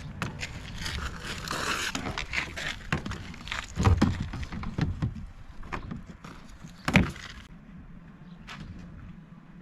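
Gear being handled and fitted onto a kayak: irregular clicks and rattles, a rustling scrape early on, and sharper knocks, the loudest about seven seconds in.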